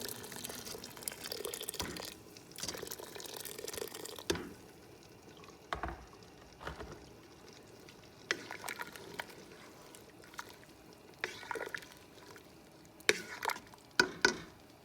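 Water pouring into a cooking pot of chicken feet and vegetables for about four seconds, then a few separate knocks from the pot and kitchen utensils, the loudest near the end.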